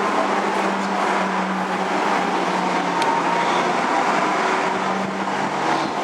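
Electric go-karts running on a rooftop race track, a steady motor hum under a wash of noise.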